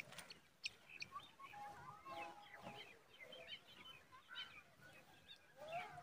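Faint bird calls: a scattering of short chirps and whistled notes, some rising and some falling, with a brief held whistle about two seconds in.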